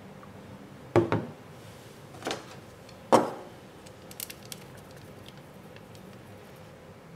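Kitchen utensils and dishes being handled: a pair of sharp knocks about a second in, another near two seconds, the loudest near three seconds, then a few light clicks.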